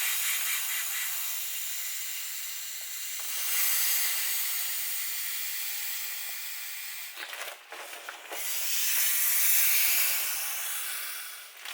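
Air hissing out of the open valve of an inflatable beach ball as it is deflated. The steady hiss breaks off briefly about seven seconds in, starts again, and fades near the end.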